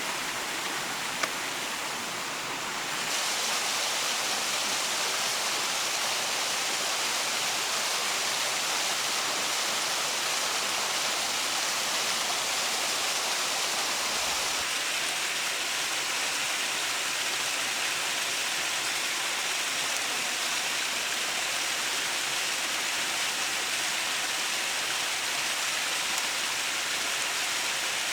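Steady hiss of water noise, growing a little louder about three seconds in.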